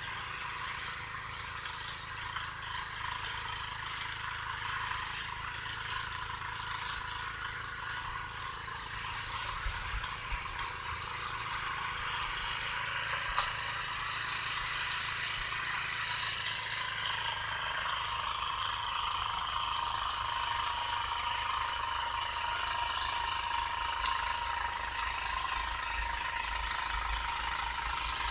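Ariens snowblower engine running steadily under load, with a continuous rushing hiss over its low, even firing. One sharp click sounds about halfway through.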